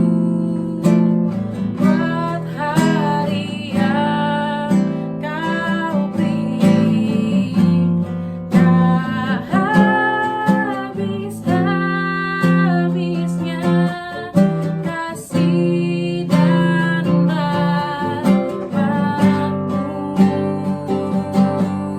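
Worship song played on strummed acoustic guitar, with a sung melody over the chords.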